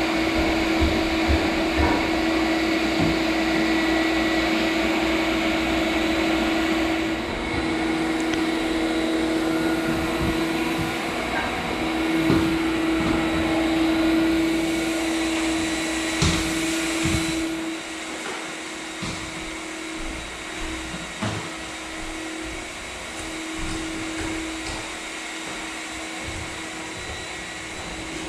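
Electric motor running steadily with a constant hum and a noisy drone, with a few scattered knocks; the drone gets quieter about 18 s in.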